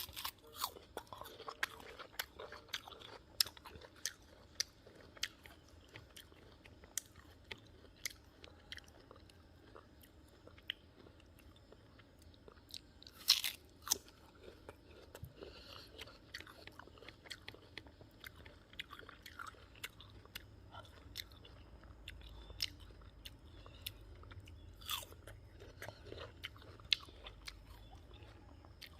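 Close-up crunching and chewing of a raw guava: many sharp, crisp crunches as the firm fruit is bitten and chewed. The loudest bite comes about halfway through, and another strong one a little over three-quarters in.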